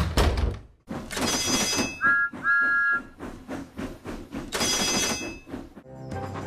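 A steam engine's whistle blows two short toots, framed by bursts of steam hissing and chuffing, with a thump right at the start.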